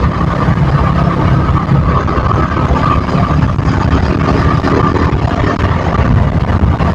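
KTM motorcycle engine and exhaust running steadily while riding through city traffic, with no sharp revs.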